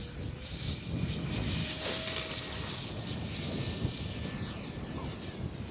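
90mm electric ducted fan of an 8S RC jet at high power during takeoff: a high-pitched whine that holds its pitch, grows loudest about two to three seconds in, then fades and steps down slightly in pitch near the end.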